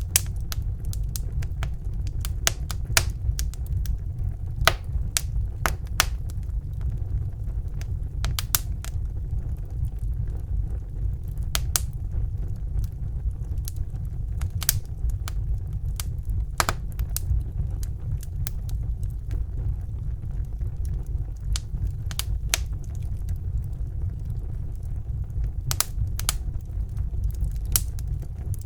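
Fire burning in a fireplace, crackling: irregular sharp pops and snaps, some louder than others, over a steady low rumble of the flames.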